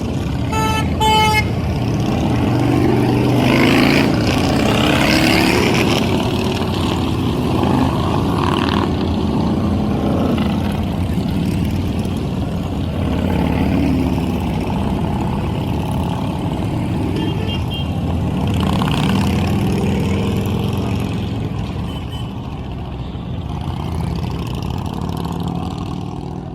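Many motorcycle engines running and revving as a group rides past. A short double horn toot sounds near the start, and a fainter brief toot comes a little past the middle.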